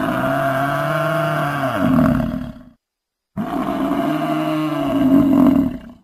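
African buffalo bellowing: two long, low calls with a short pause between them, each swelling louder toward its end.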